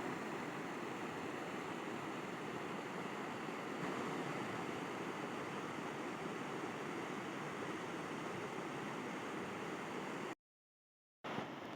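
River water rushing and flowing steadily. It cuts out to complete silence for under a second near the end, then comes back slightly softer.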